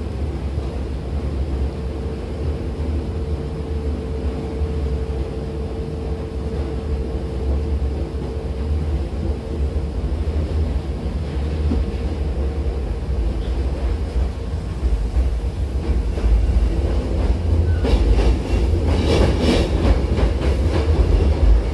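Hankyu Takarazuka Line electric train running, heard from inside the car: a steady rumble of wheels on rail with a steady motor hum in the first half. Near the end, as it comes into the station, louder clattering with some squeal from the wheels.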